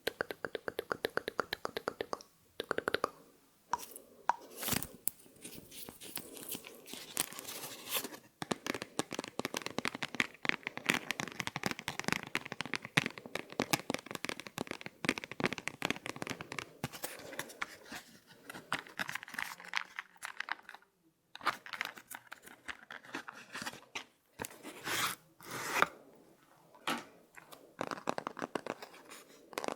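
Close-miked ASMR trigger sounds: rapid, crisp clicks and crackles, very fast and dense, broken by a few short pauses.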